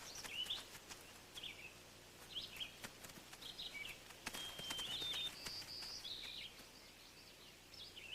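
Faint, high-pitched animal calls: short chirps that rise and fall, a steady whistled note about halfway through followed by two higher held notes, with a few soft clicks.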